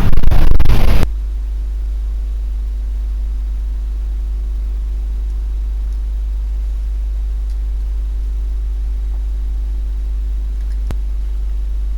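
A steady low electrical hum with a few faint tones above it. In the first second a loud, harsh noise cuts off abruptly, and there is a single click about eleven seconds in.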